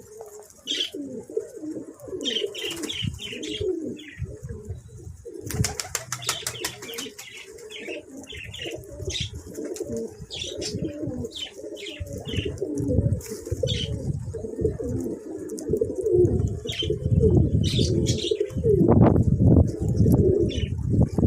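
A flock of domestic pigeons cooing continuously, with a brief burst of wing flapping about five and a half seconds in and short higher chirps scattered through.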